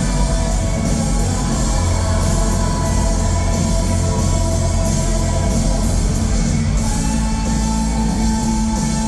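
Rock band playing live and loud, with guitars, bass and drums.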